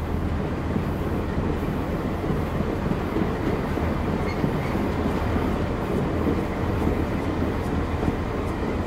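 Railway train running: a steady, deep rumbling noise with a low hum underneath, even in loudness throughout.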